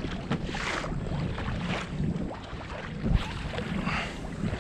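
Water splashing and sloshing around a kayak in a few short surges, with some wind noise on the microphone.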